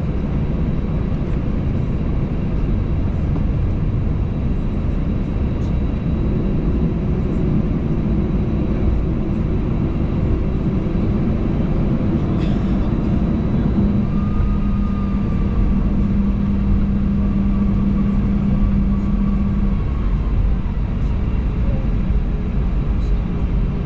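Cabin noise of an Airbus A320 taxiing, a steady low rumble from its idling jet engines. A steady hum sits over it through the middle, with a faint whistle alongside it for several seconds.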